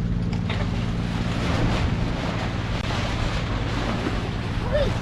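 Wind buffeting the microphone and water rushing along a sailboat's hull, over a steady low hum from the boat's auxiliary engine. A short squeak-like tone sounds near the end.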